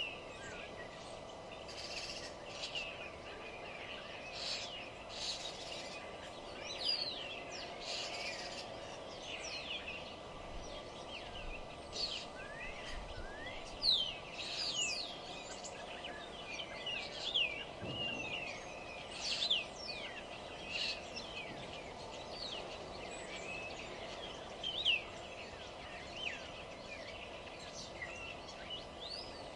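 Several wild songbirds chirping and singing in quick overlapping phrases of short rising and falling notes. A steady low hum runs underneath.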